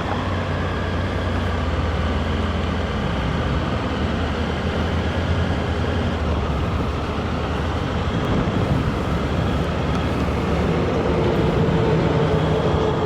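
Motorcycle engine running while being ridden, with steady wind and road noise; the engine note shifts about halfway through.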